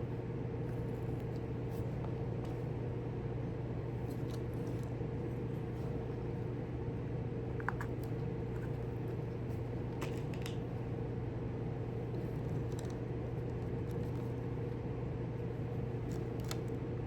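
Steady low mechanical hum, with a few faint light clicks scattered through it.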